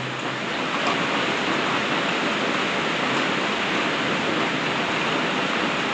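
Heavy rain pouring steadily, heard from inside a horse barn.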